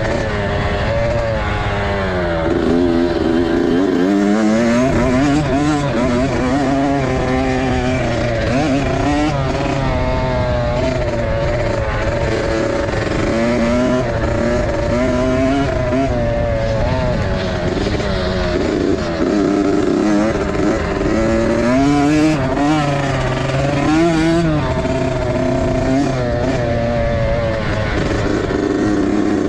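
Several motocross dirt bike engines revving at once, their pitch rising and falling over and over as the riders open and close the throttle around the track.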